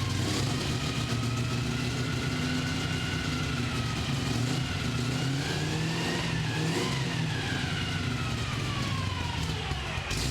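V8 engine running at a steady idle. A thin high whine above it rises slowly in pitch, peaks about two-thirds of the way through, then falls away near the end.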